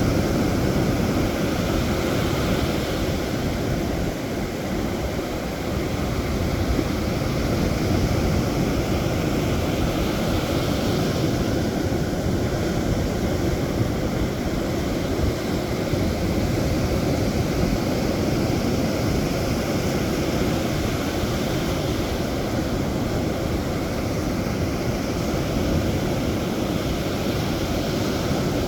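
Sea surf washing in, mixed with wind on the microphone, as a steady rushing noise that is heaviest in the low rumble and swells gently now and then.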